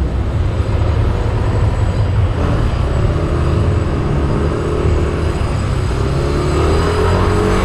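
Yamaha Aerox 155 scooter being ridden, its engine and CVT drive running under way with a faint engine note that rises slightly near the end as it speeds up. A steady low wind rumble on the microphone runs under it.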